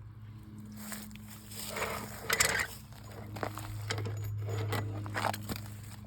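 Scattered light clicks and rustles of hands handling parts under the car, with a sharper click about two and a half seconds in, over a steady low hum.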